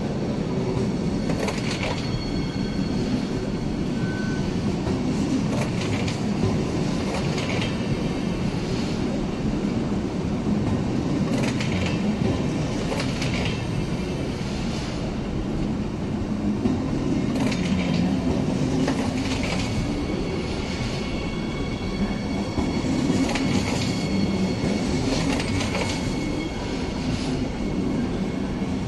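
Siemens Desiro HC electric multiple unit (RRX class 462) pulling in along the platform: a steady rumble from the passing cars, with the wheels clicking about every one to two seconds and a faint high whine.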